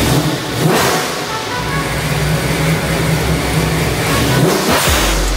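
ProCharger-supercharged small-block Ford V8 in a Fox-body Mustang running on a hub dyno with an uneven, choppy idle. It is blipped up twice, about a second in and near the end.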